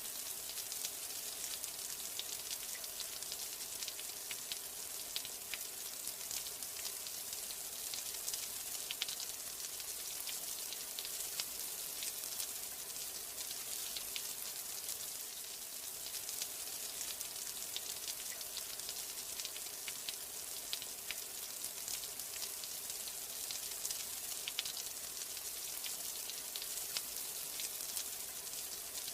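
Steady rain: an even high hiss, dotted all through with many small, sharp drop ticks.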